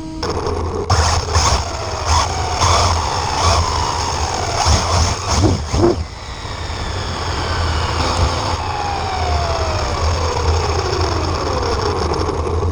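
Vehicle or motor noise: a steady low rumble with whines that fall slowly in pitch over several seconds in the second half.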